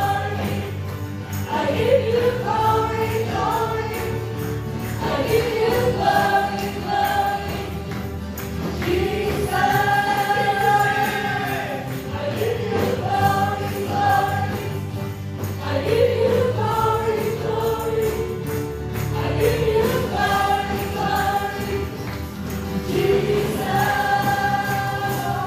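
Worship music: voices singing a slow, held melody over a band accompaniment.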